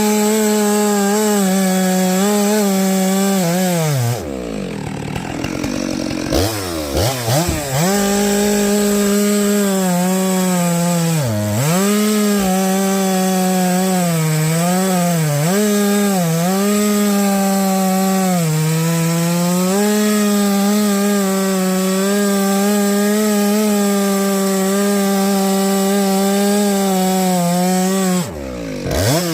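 Chainsaw running at full throttle through an oak log, its steady high whine dipping in pitch as the chain bogs in the cut. It drops to idle about four seconds in, revs back up, and drops again near the end.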